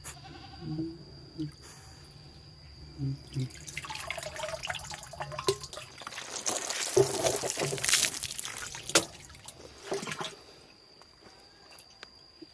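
Water splashing and pouring over a dog being given a shower, building up about four seconds in, heaviest in the middle, and stopping near the end. A few short low sounds come before the water starts.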